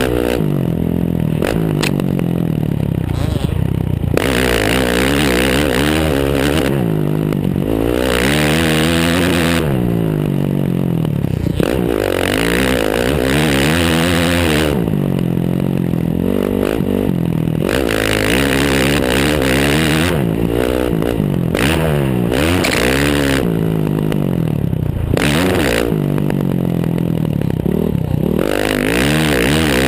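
Honda CRF450R motocross bike's single-cylinder four-stroke engine, heard at the rear fender, revving hard and backing off again and again as it goes through the gears, with clattering and scraping noise mixed in.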